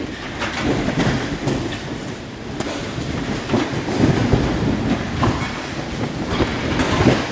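High wind gusting against a screened pool enclosure: a loud, low rush that swells and eases in gusts, with scattered sharp clicks and knocks.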